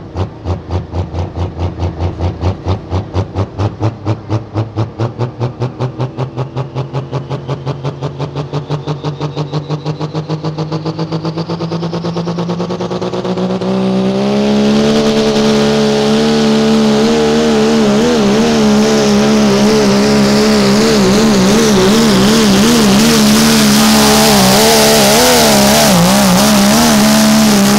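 Modified Dodge Ram pickup's engine running with a pulsing, loping beat whose pitch slowly climbs, then opened up about fourteen seconds in to a loud, sustained full-throttle run with the pitch wavering up and down under load, before the throttle drops off at the very end.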